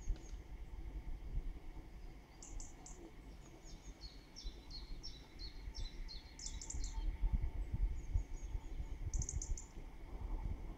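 Small songbirds chirping and trilling in trees, a run of quick repeated high notes in the middle, over a low rumble that grows louder in the second half.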